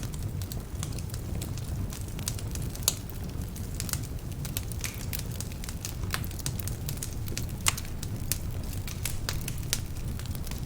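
Wood fire burning in a fireplace, partly damp logs crackling and popping over a steady low rumble, with two louder pops, one about three seconds in and one near eight seconds.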